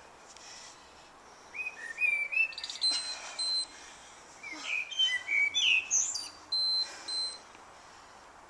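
A songbird singing a run of varied chirps and whistles in two phrases, from about a second and a half in to about seven seconds in, over faint outdoor background noise.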